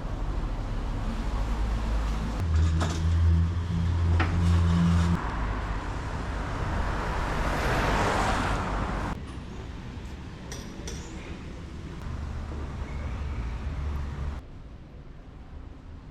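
Street traffic on a wet road: a vehicle's engine running with a deep drone early on, then a car passing with tyre hiss that swells and fades about eight seconds in. The level drops abruptly twice, near the middle and near the end.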